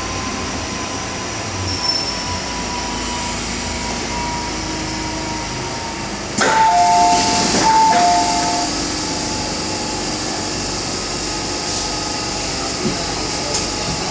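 MTR M-Train slowing to a stop, its motor whine falling in pitch, then the doors sliding open about six seconds in with a two-tone chime sounded twice.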